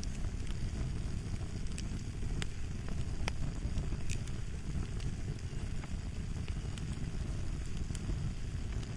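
Fire crackling: a steady low rumble of burning wood with scattered sharp pops and snaps, a dozen or so spread irregularly through the stretch.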